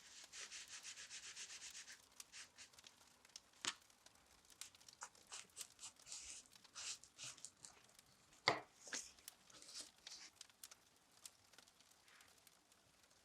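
A quick, even run of rubbing strokes for about two seconds, then scattered light taps and clicks of handwork, with one sharper knock about eight and a half seconds in.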